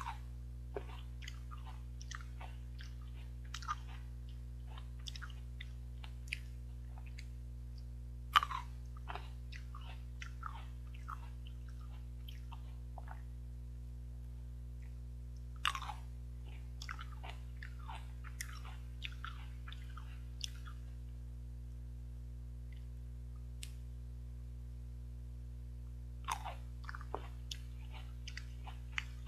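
Close-up chewing and biting of seedless green grapes: crisp bites and wet chewing come in several bursts with pauses between, the sharpest bites about 8 and 16 seconds in. A steady low hum runs underneath.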